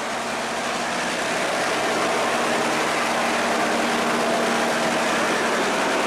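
A barge's diesel engine running hard at high throttle as the pilot pushes the barge through a sluice gate against the current. It grows a little louder over the first two seconds, then holds steady.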